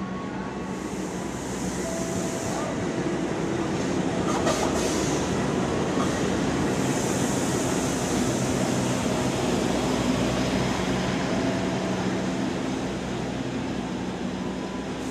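CC 206 diesel-electric locomotive and its passenger coaches pulling into the station, the engine running with a low hum over the rumble of wheels on the rails. It grows louder over the first few seconds as the locomotive comes past, then holds steady as the coaches roll by.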